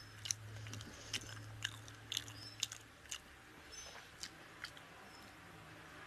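Close-miked chewing of a mouthful of rice and fish curry: wet mouth clicks and smacks, about two a second.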